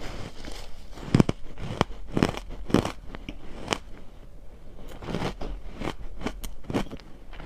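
A person chewing and crunching crushed ice close to the microphone: a run of irregular crisp crunches, the loudest about a second in.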